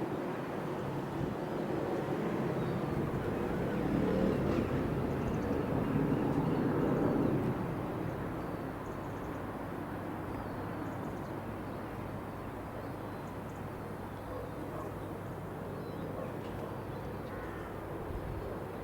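Robinson R66 turbine helicopter heard in flight outdoors. It is loudest for the first seven seconds or so, then drops to a steadier, fainter drone as it moves away.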